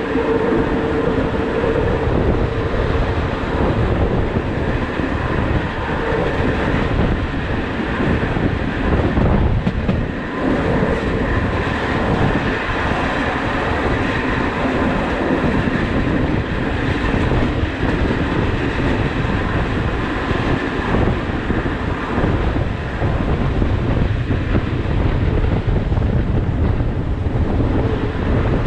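Rhaetian Railway Bernina line train running along the track, heard from a camera fixed to the carriage window: a steady, loud rumble and rattle of the carriages' wheels on the rails.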